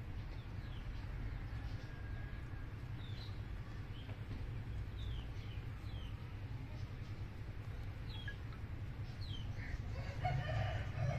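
Short, high bird chirps that fall in pitch, coming every second or so over a steady low rumble. A louder, brief call comes near the end.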